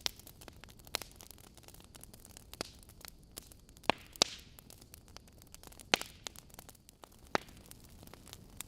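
Wood logs burning in a fireplace, crackling with scattered sharp pops over a faint hiss. The loudest pops come about four seconds in and again about six seconds in.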